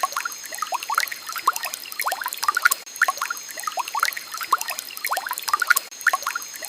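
Water trickling and bubbling, a dense patter of small liquid plinks over a soft hiss.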